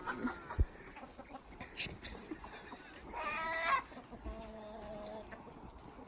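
Chicken calling: a short, loud squawk about three seconds in, followed by a fainter drawn-out call, with a brief knock near the start.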